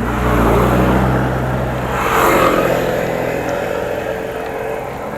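A motor vehicle's engine passes close by on the road. It comes in suddenly, is loudest about two seconds in, then fades.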